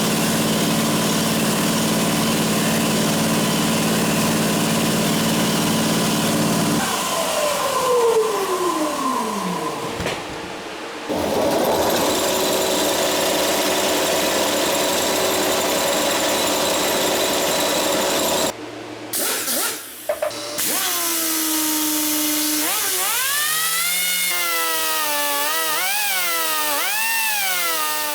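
Machine tool motors in a metalworking shop: one runs steadily, then winds down about seven seconds in with a falling whine. Another machine then runs steadily. From about twenty seconds in, a motor whines with its pitch rising and falling again and again, as its speed changes.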